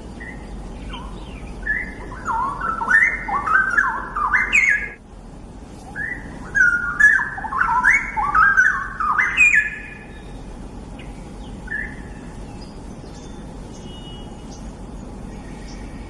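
Straw-headed bulbul (cucak rawa) singing two loud, rich warbling phrases of about three to four seconds each, separated by a short pause, over a steady background hiss.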